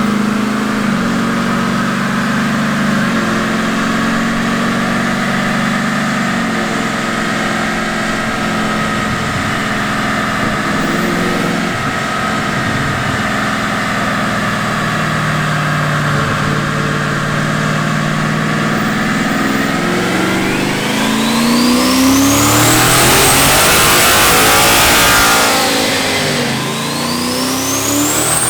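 Turbocharged 5.0 Coyote V8 in a Ford F150 running steadily at light load on a chassis dyno. About two-thirds of the way in it goes to full throttle, its note rising with a climbing turbo whistle. Near the end it falls off briefly, then revs and whistles up again.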